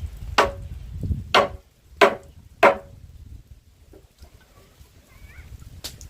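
A tool striking wood in sharp blows: four about two-thirds of a second apart, then a pause and one more near the end.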